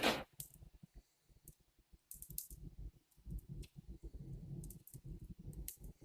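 Wood fire burning in an open brick fireplace: scattered sharp crackles and pops over a low rumble of the fire drawing up the flue.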